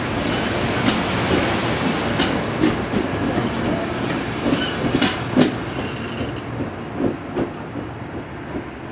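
Amtrak Coast Starlight passenger cars rolling past, with a steady rumble of wheels on rail and clickety-clack as the wheels cross rail joints, the clicks often coming in pairs. The sound eases off near the end.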